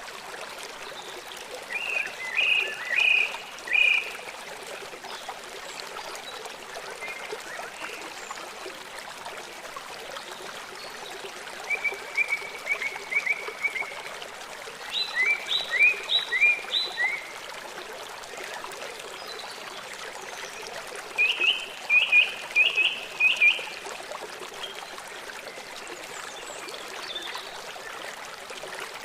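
A songbird singing three short bouts of quick, repeated bright notes, the first about two seconds in, the others near the middle and about three-quarters through, over the steady rush of running water from a stream.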